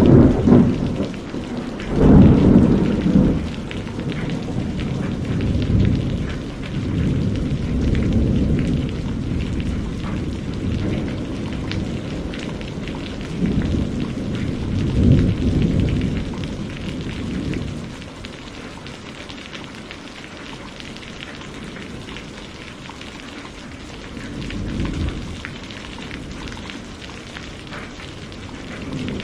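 Steady heavy rain falling, with rolls of thunder rumbling over it several times, the loudest about two seconds in; the storm eases somewhat in the last third.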